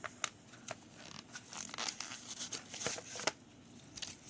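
Packaging being handled and unwrapped: irregular crinkling and rustling with sharp clicks.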